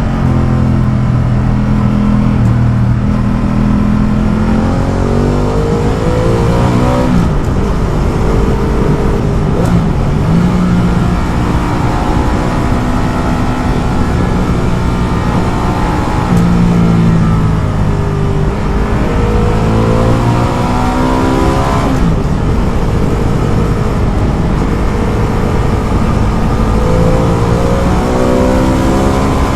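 Ducati Multistrada motorcycle engine under way, its pitch climbing as it accelerates and dropping sharply at upshifts, about three times, over a steady rush of wind and road noise.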